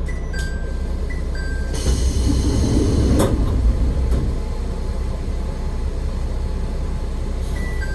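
An AN-8800 diesel railcar running, heard from the cab, with the engine and wheels making a steady low rumble. About two seconds in a burst of hiss rises and then stops. Short two-note electronic beeps, stepping down in pitch, sound near the start and again near the end.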